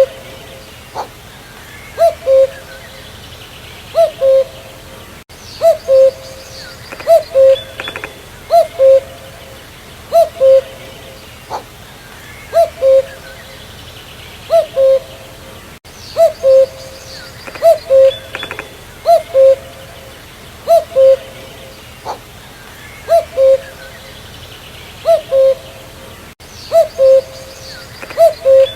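Male common cuckoo (Cuculus canorus) calling its two-note "cu-coo", the second note lower than the first, repeated about every two seconds. Fainter chirps of other birds run behind it.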